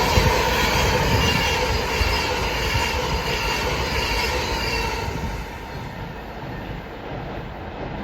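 A train moving through the station, with a thin high whine over its rumble; the sound fades away from about five seconds in as the train draws off.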